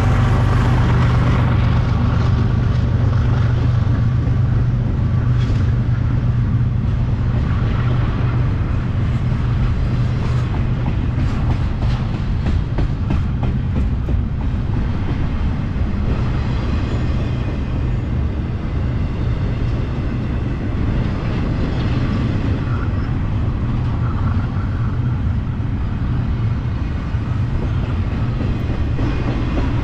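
A trailing diesel locomotive's engine tones fade over the first couple of seconds. Then double-stack intermodal well cars roll past: a steady, loud rumble of steel wheels on rail, with scattered wheel clicks.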